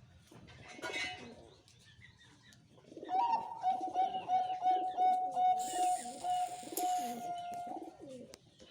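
Zebra dove (perkutut) cooing in the slow style: from about three seconds in, a run of quickly repeated notes on one steady pitch, lasting about five seconds. A short hiss sounds partway through the call.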